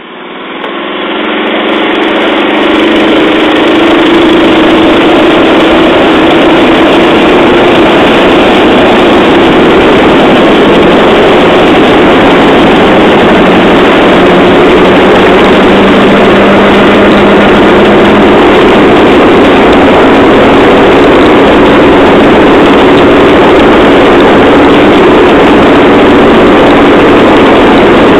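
Engine of a handmade rail trolley train running steadily: a loud, constant engine drone that fades up over the first couple of seconds and then holds unchanged.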